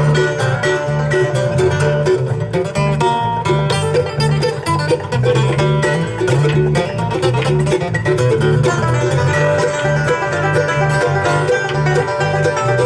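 A live country band playing an instrumental break: quick picked string notes over a steady, pulsing bass line, with no singing.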